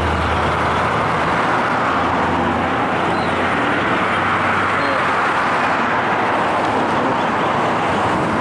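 Steady city traffic noise, with a vehicle engine idling low for the first few seconds before fading.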